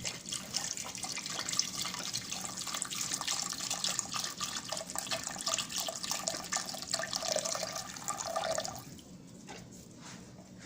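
Chicken stock poured from a carton into a pot: a steady splashing pour that stops about nine seconds in.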